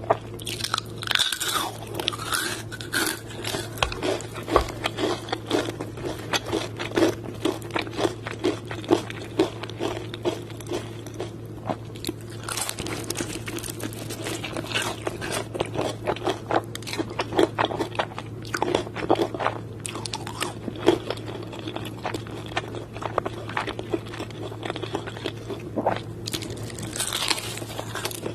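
Close-up crunching and chewing of crispy KFC fried chicken: bites into the crunchy coating followed by dense, irregular crackling chews, over a steady low hum.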